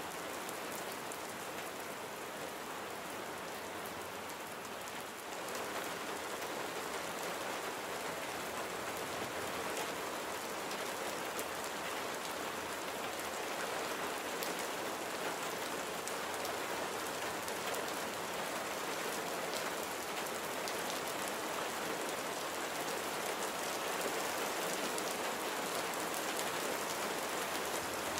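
Steady rain falling: an even hiss with a fine patter of drops. It grows a little louder about five seconds in.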